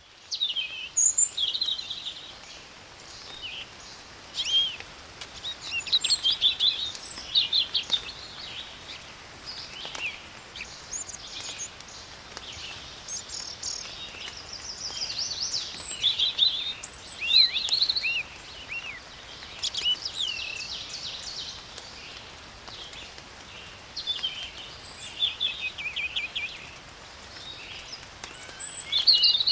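Songbirds singing and chirping repeatedly over a steady, faint hiss of spring rain.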